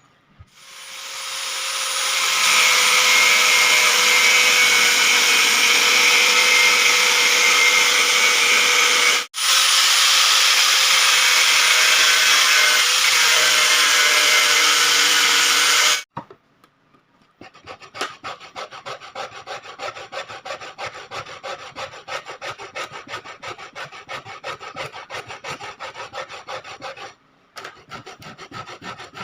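Wood being worked with tools: for the first half, a loud steady machine-like grinding that builds up, breaks briefly and then cuts off suddenly. After that come quieter, rapid rasping strokes on wood, several a second, like hand filing or sawing.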